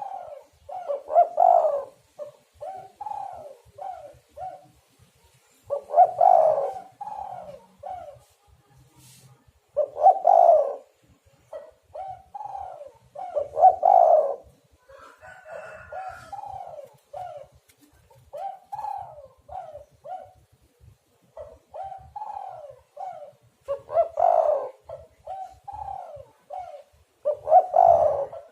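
Spotted dove (tekukur) cooing: repeated song phrases, each a louder opening coo followed by several shorter coos, recurring every few seconds.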